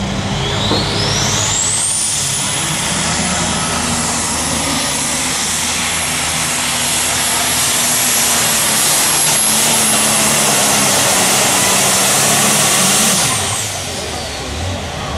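Pulling tractor's engine running at full power down the track, with a loud high whine that climbs over the first two seconds, holds steady, and falls away with the engine noise about 13 seconds in as the pull ends.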